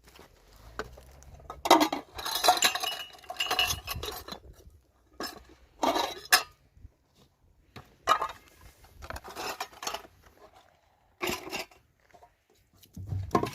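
Pots, dishes and metal utensils clattering and clinking as they are handled, in several separate bursts with short pauses between.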